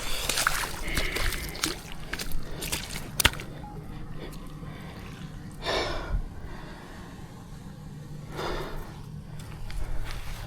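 A person breathing out hard twice, a couple of seconds apart, after some splashing and a sharp knock about three seconds in.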